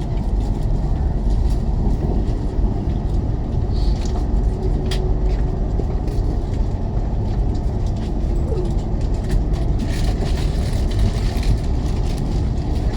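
Steady low rumble of a CR400BF-Z Fuxing high-speed train running at speed, heard inside the carriage, with a few faint clicks.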